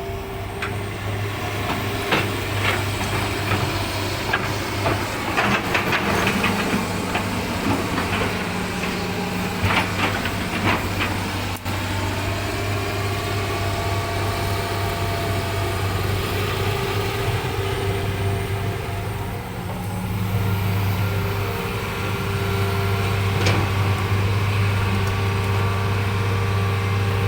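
Hitachi Zaxis 200 excavator's diesel engine running steadily with a low hum, getting a little louder about two-thirds of the way through. Sharp knocks and clanks come in a cluster in the first half and once more near the end.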